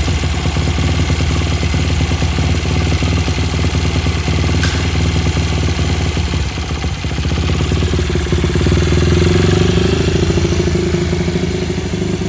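Honda Ape 50's small single-cylinder four-stroke engine idling steadily. About eight seconds in it is revved gently for a few seconds, then it drops back toward idle.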